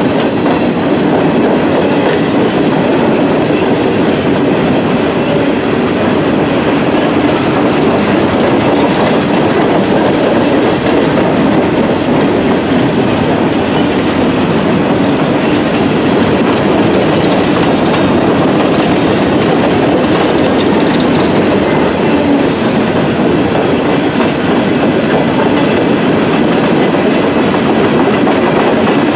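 Freight cars rolling past at close range: a steady rumble and clatter of steel wheels on the rails. A thin high wheel squeal rides over it at first and fades away after several seconds.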